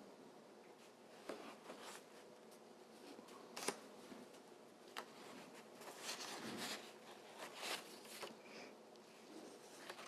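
Faint, scattered rustles and small ticks of paper being handled: photographs being shuffled and turned over in a small room.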